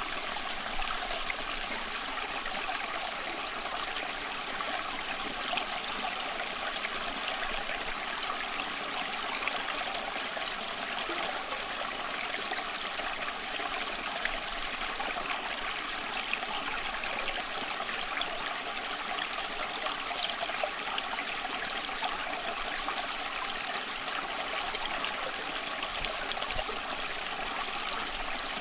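Small stream running over rocks, a steady babble and trickle of flowing water.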